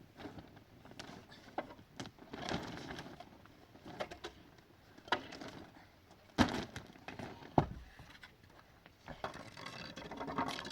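Irregular handling noises: rustles, scrapes and knocks, with two sharp knocks a little over a second apart past the middle.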